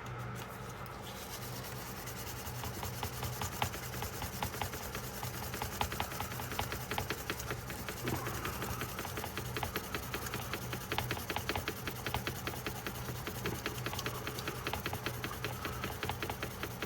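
Fast, continuous back-and-forth rubbing and scrubbing on a pocketknife by hand, many quick strokes a second, as the knife is cleaned.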